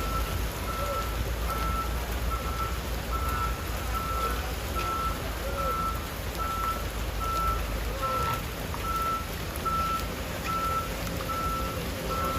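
Truck reversing alarm beeping steadily at a single pitch, a little more than once a second, over the low rumble of the truck's engine, which eases off about two-thirds of the way through.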